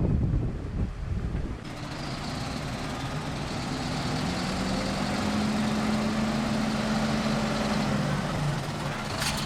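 Wind buffeting the microphone for the first second and a half, then an engine running steadily, its pitch slowly rising through the middle and falling back near the end. A few sharp clicks come right at the end.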